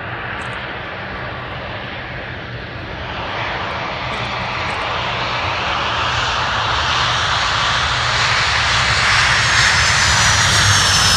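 Boeing 747-400 airliner's four Rolls-Royce RB211 turbofan engines on approach to land: a steady jet roar that grows steadily louder as the aircraft nears, with a faint high whine sliding down in pitch near the end.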